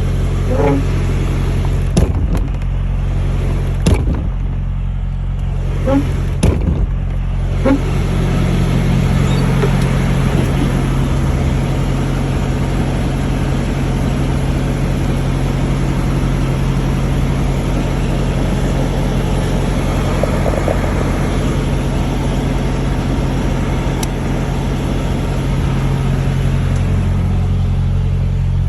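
Semi-truck's diesel engine running with a steady low drone, heard from inside the cab; it firms up about eight seconds in. A few sharp clicks or knocks come in the first seven seconds.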